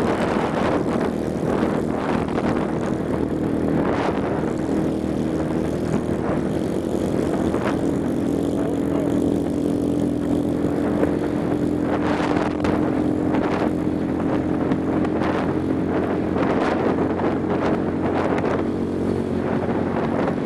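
Motorcycle engine running steadily at cruising speed, with wind rushing over the microphone in repeated gusts.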